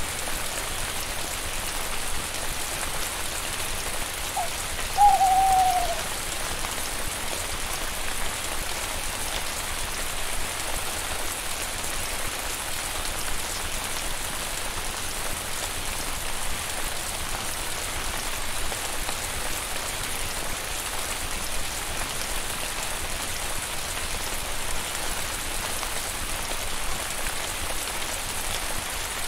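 Steady rain falling, with one short call falling in pitch about five seconds in.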